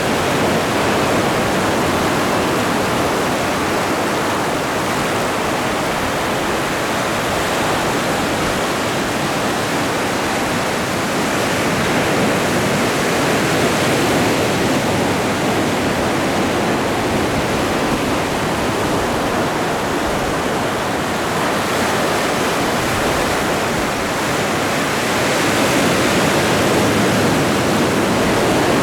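Atlantic Ocean waves breaking and washing on the shore: a continuous rushing surf that swells louder about halfway through and again near the end.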